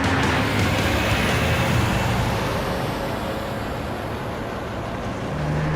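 Cars driving fast: a steady mix of engine hum and road noise.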